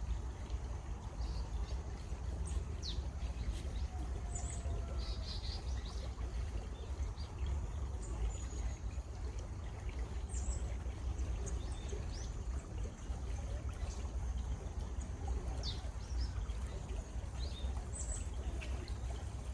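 Stream water running steadily with a low rumble, while birds chirp in short calls scattered throughout.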